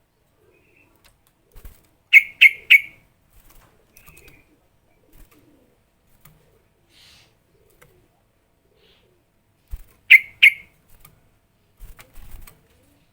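Yellow-vented bulbul (trucukan) calling in short, sharp notes: three quick loud ones about two seconds in and two more near the end, with faint scattered notes between.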